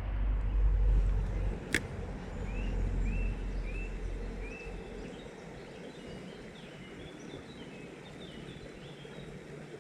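A small bird singing a run of short, repeated chirps over steady stream noise. Wind rumbles on the microphone for the first few seconds, and there is one sharp click about two seconds in.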